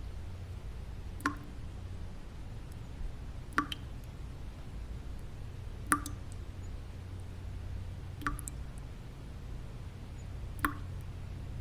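Single water drops falling one at a time, five in all, spaced evenly about every two and a half seconds, each a short sharp plink. Underneath runs a steady low rumbling white-noise bed.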